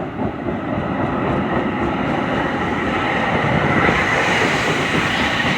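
A DART light rail train passing close by on the track. Its noise builds to a peak about four seconds in, then eases slightly.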